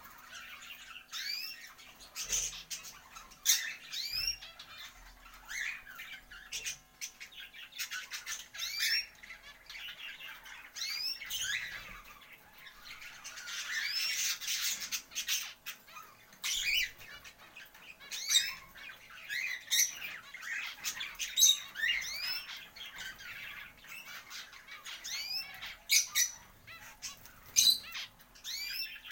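A flock of small pet birds chirping and squawking, with many short rising calls overlapping one after another.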